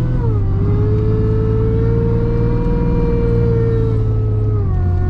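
Supercharged Jeep Grand Cherokee 4.0L straight-six running as the Jeep rolls along at low speed, heard from inside the cabin. A steady engine drone sits under a pitched supercharger whine. The whine drops in pitch about a quarter second in, rises slightly, then falls again near the end as the revs ease off.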